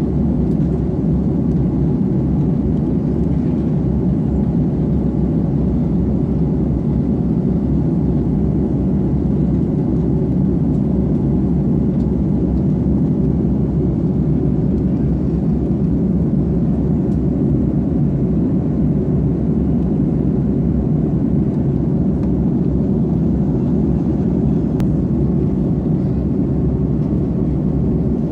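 Steady, deep cabin drone of an Airbus A330 airliner in flight, the engines and rushing air heard from inside the cabin.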